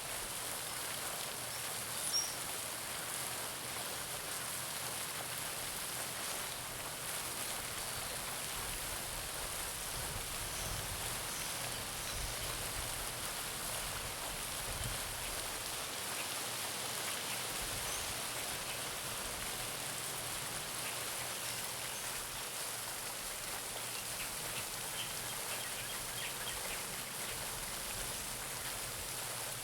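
Garden pond fountain: water splashing and pattering steadily back into the pond, with a few faint bird chirps.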